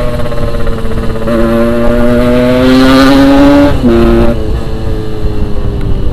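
Yamaha RX-King 135cc single-cylinder two-stroke engine running under way, rising steadily in pitch as it pulls through a gear, then dropping suddenly about four seconds in as the throttle eases or a gear is changed. A constant low rushing of wind runs underneath.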